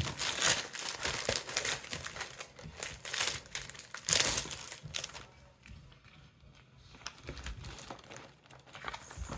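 Plastic packaging crinkling and rustling as it is handled, dying down about five seconds in to a few faint rustles.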